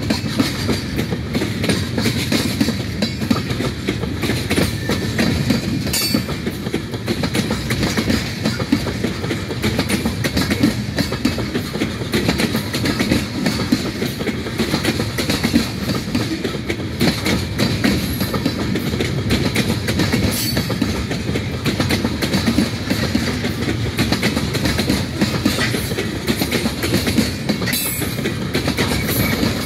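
A freight train rolling steadily past, its wheels clattering over the rail joints in a continuous clickety-clack.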